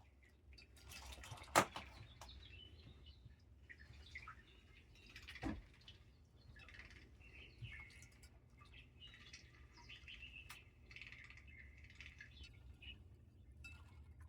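Sun cheek conure (a green-cheeked conure colour variety) bathing in shallow water: light, irregular splashing and flicking with soft chirps, and two sharp knocks, about a second and a half and five seconds in.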